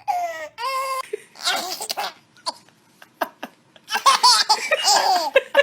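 A baby laughing in high-pitched bursts, pausing briefly in the middle with a few clicks, then laughing hard again near the end.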